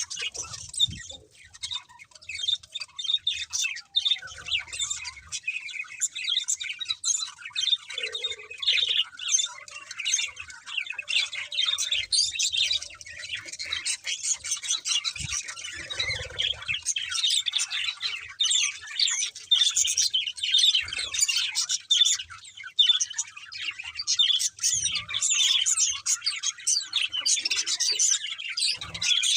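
Budgerigars chattering and warbling: a dense, continuous run of quick chirps and squawks.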